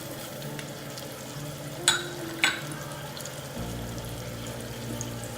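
Aubergine and tomato masala frying in oil in a pan, a steady sizzle, with two sharp clicks about two seconds in.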